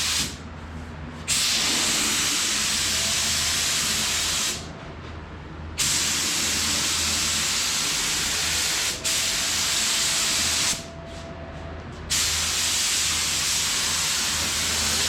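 Compressed-air paint spray gun hissing as it lays on base coat, in several long passes of a few seconds each with short pauses between as the trigger is released.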